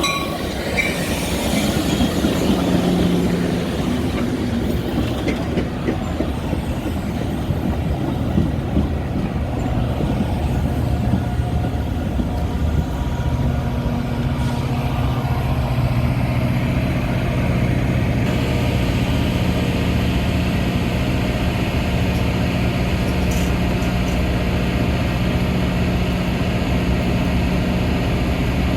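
Metra commuter train running: a steady rumble of wheels on rail, with a low, even drone that settles in about halfway through.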